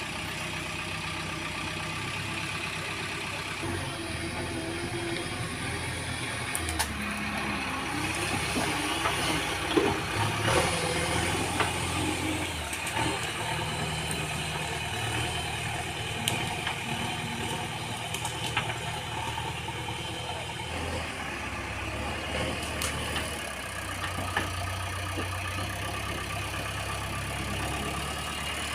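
Heavy vehicle diesel engines running, their pitch rising and falling as they are worked, with a few sharp knocks.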